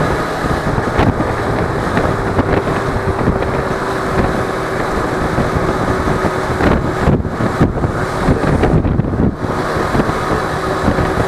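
Wind buffeting an action camera's microphone over the parallel-twin engine of a Suzuki V-Strom 250 motorcycle running at road speed, with a faint steady hum through most of it.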